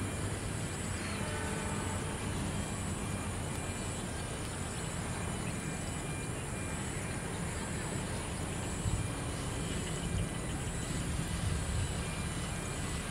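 Steady low rumble of a train approaching from far down a straight line, heard under a steady outdoor hiss.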